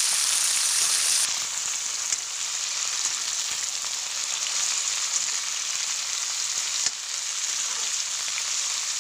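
Drumstick pods and potato sticks sizzling in hot oil in a karahi: a steady frying hiss, with a couple of faint knocks from a spatula stirring the pan.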